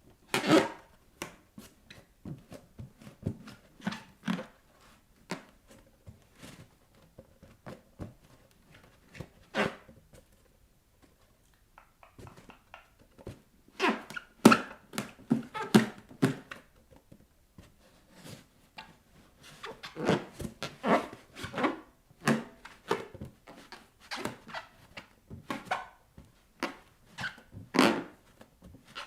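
Bare feet pressing, rubbing and tapping on inflated rubber balloons: irregular squeaks and squeals of stretched rubber with soft thumps, coming in clusters with a short lull in the middle.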